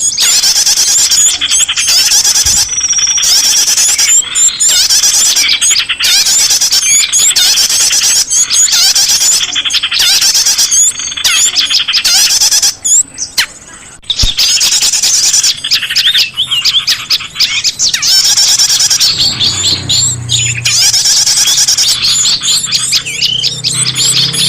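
A dense, loud chorus of many small birds chirping and squawking at once, rapid high chirps and sweeping notes overlapping with no let-up; this is a bird-lure recording of noisy small-bird calls. A low steady tone comes in near the end.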